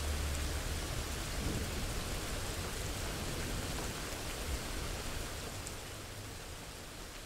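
Steady rain, an even hiss that slowly grows quieter.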